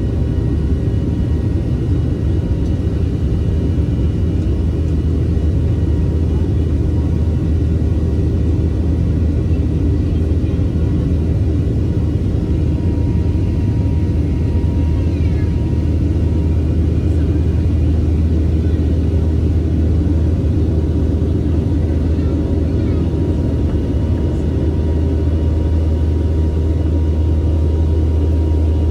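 Jet airliner cabin noise in flight: a loud, steady low drone of engines and airflow.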